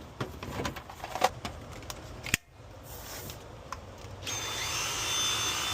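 Plastic parts of a Dyson stick vacuum clicking and knocking as they are fitted back together, then about four seconds in the Dyson motor starts and runs with a steady high whine. The suction holds steady without pulsing, the sign that the blockage is cleared.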